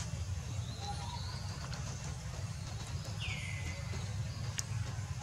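Birds calling in the background: a few short high chirps, then a downward-sweeping call about three seconds in, over a steady low rumble. A single sharp click comes shortly after the sweeping call.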